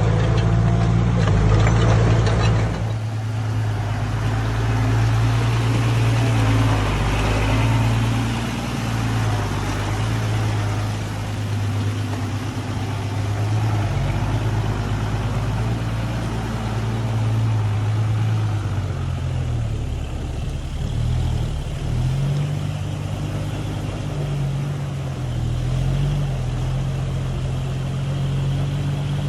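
Diesel engine of heavy earthmoving machinery running steadily, its pitch wavering up and down in the last third as it takes and drops load.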